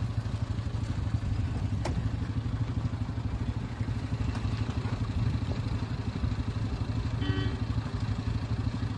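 A motor vehicle's engine running steadily close by, a low pulsing throb, with a brief pitched sound near the end.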